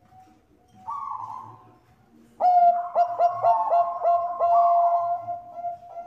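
Zebra dove (Bangkok-type perkutut) cooing. A single short coo comes about a second in. From about two and a half seconds there is a loud run of quick stuttering coos, about three a second, that runs into a long held note.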